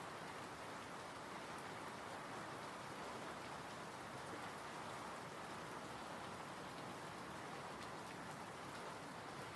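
Steady rain falling, an even hiss with fine pattering drops, without let-up.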